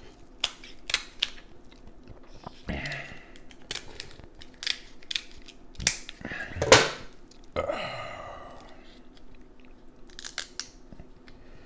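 Close-up mukbang eating sounds: chewing seafood with wet mouth clicks and smacks at irregular moments, the loudest smack about seven seconds in.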